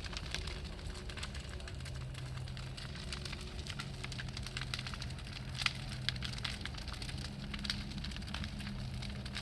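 Large bonfire crackling and popping steadily, with one sharper pop about five and a half seconds in, over a low steady hum.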